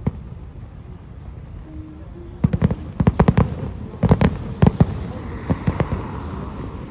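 Fireworks display: after a short lull, rapid volleys of sharp bangs start about two and a half seconds in, then a crackling hiss near the end.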